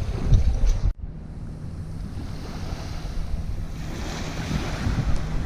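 Water rushing and splashing along the hull of an outrigger canoe under sail, with wind buffeting the microphone. After an abrupt cut about a second in, the sound is quieter, and the rush of water builds again from about four seconds on.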